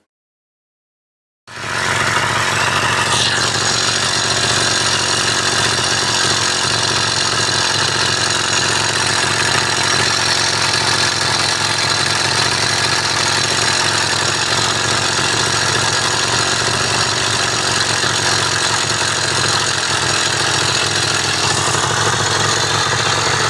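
Small two-stroke bicycle engine running steadily at a fast idle after its clutch upgrade. It cuts in abruptly about a second and a half in and holds a steady note.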